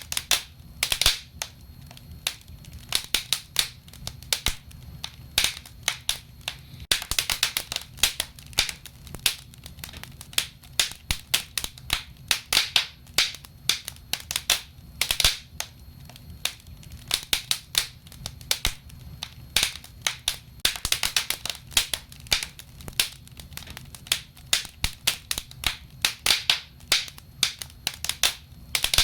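Wood fire burning in a fireplace: irregular crackling and sharp pops, some coming in quick clusters, over a low steady rumble of the flames.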